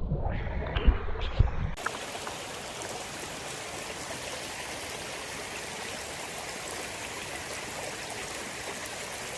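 Muffled low rumbling and a few knocks, then about two seconds in an abrupt switch to the steady, even rush of a flowing stream.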